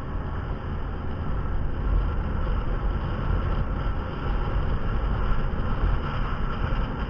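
Steady vehicle running rumble with wind noise on the microphone.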